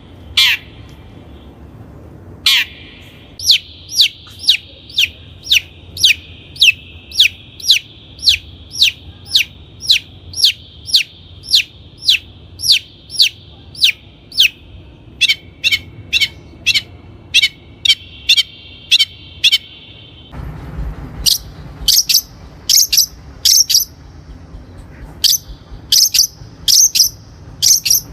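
Long-tailed shrike calling, a long run of sharp, downward-sweeping harsh notes about two a second. About two-thirds of the way through, the background changes and the notes come higher and in quicker clusters.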